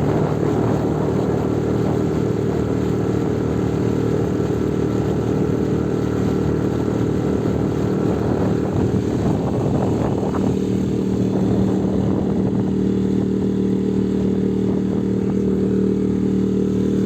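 Outboard motor of a small boat running at a steady speed under way, a constant engine drone with no change in pitch.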